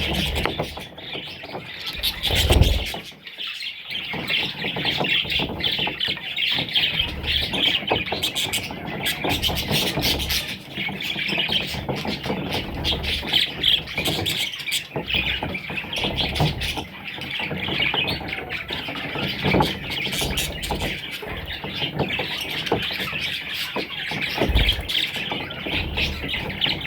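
Parrot chicks calling continuously, a dense chatter of chirps and squawks, with a few low bumps.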